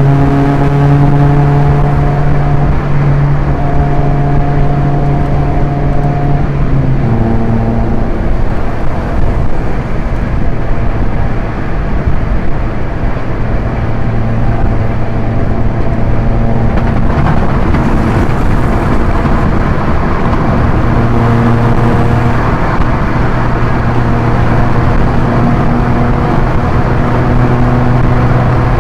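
Proton Inspira's 1.8-litre four-cylinder engine pulling under load with a five-speed manual gearbox, its note climbing slowly. The note drops at a gear change about seven seconds in, then holds steady at speed. Road and wind noise run underneath.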